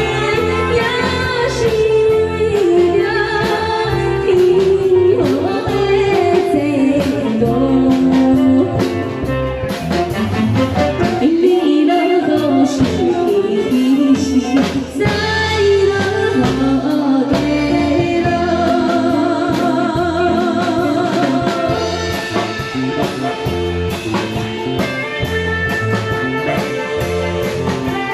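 A woman singing a Taiwanese Hokkien song live, with instrumental accompaniment and a steady beat; her long notes waver with vibrato.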